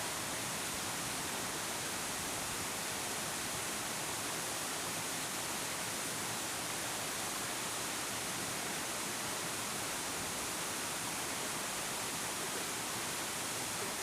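A high waterfall with plenty of water crashing into its plunge pool, a steady, unbroken rush of white water.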